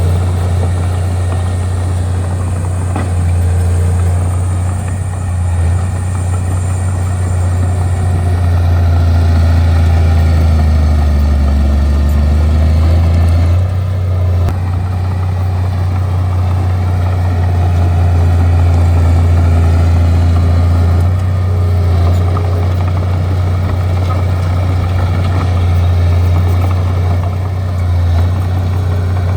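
Bulldozer's diesel engine running steadily, a deep continuous drone with small rises and dips in loudness.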